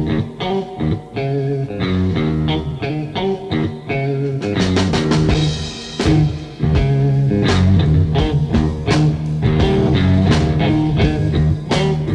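Blues-rock instrumental: electric guitar playing over bass and a drum kit keeping a steady beat.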